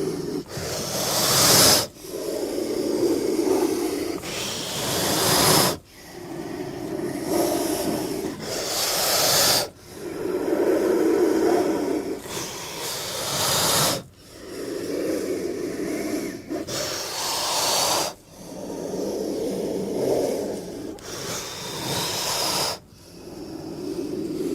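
King cobra hissing in long breathy hisses, repeating about every four seconds; each hiss swells, ends in a sharper high hiss and cuts off suddenly.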